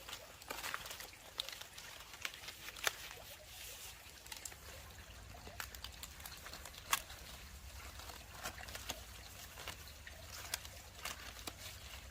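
Irregular light clicks and taps, scattered unevenly, over a faint low hum.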